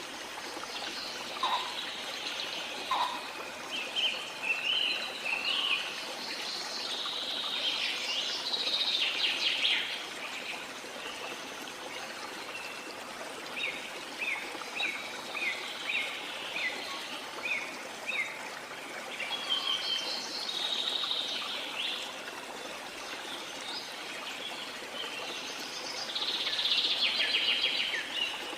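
Rainforest ambience: many birds calling and chirping over a steady wash of falling water. A quick run of short repeated chirps comes in the middle, with busier bursts of chattering calls about eight seconds in and near the end.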